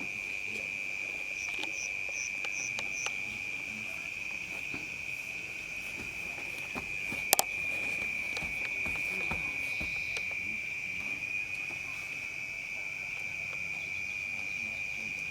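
Crickets trilling steadily in one high, unbroken tone. There are a few short, higher chirps about two seconds in and a single sharp click about seven seconds in.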